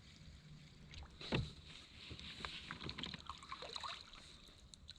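Kayak paddling on calm water: small splashes and drips from the paddle, with a louder thump about a second and a half in.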